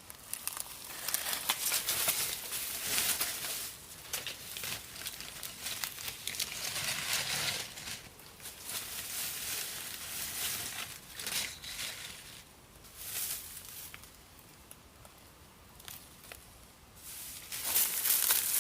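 Irregular rustling and crinkling of dry material being handled, in uneven spells. It quietens for a few seconds and then picks up again near the end.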